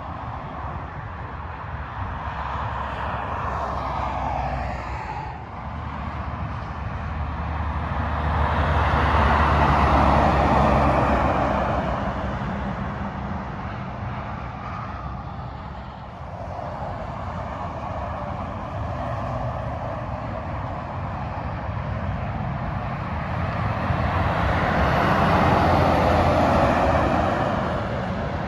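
Freeway traffic passing at speed: tyre roar and a low engine drone swell up to two loud pass-bys, one about ten seconds in and another near the end.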